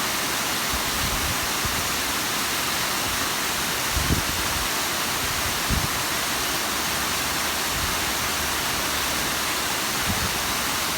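Bigăr waterfall: a steady rush of falling and splashing water, with two brief low thumps about four and six seconds in.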